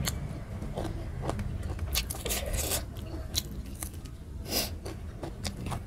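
Close-miked eating: chewing a mouthful of spicy chicken curry eaten by hand, with wet mouth clicks and smacks and, about four seconds in, finger licking. A steady low hum runs underneath.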